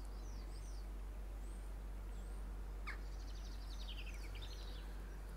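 Faint high bird chirps, a few single notes and then a quick twittering run, over a steady low background hum, with one light click about three seconds in.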